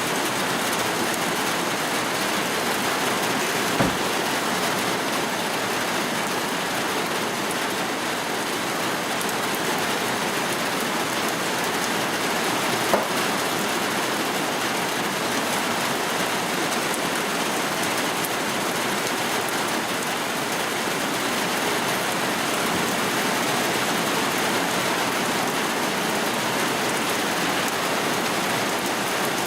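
Steady rain falling, an even hiss of drops. Two sharp knocks stand out, one about four seconds in and a louder one about thirteen seconds in.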